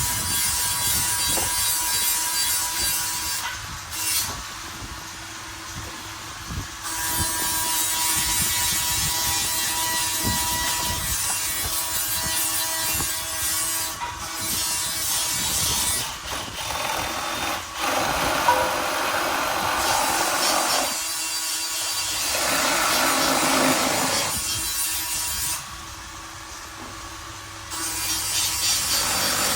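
A power tool running against material in long stretches, with two short pauses.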